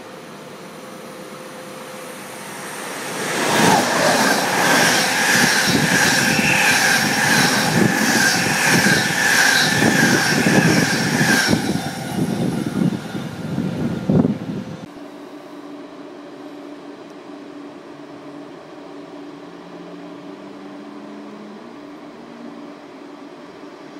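A train passing at speed on the main line, swelling to a loud rush with a regular clickety-clack of wheels and a steady high whine, which stops abruptly about fifteen seconds in. After that a quieter steady hum with low tones as an ICE high-speed train rolls slowly through the station.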